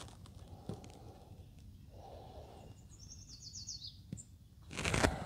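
Quiet outdoor ambience with a songbird's quick trill of about seven short high notes a little past the middle, and a brief loud rushing noise near the end.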